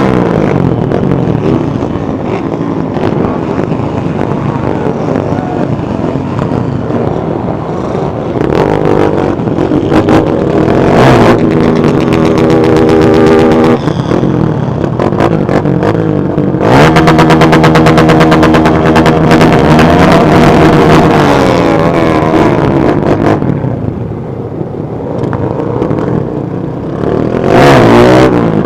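Many motorcycle engines running together, revving repeatedly, their pitch rising and falling as bikes ride past close by, with several loud passes.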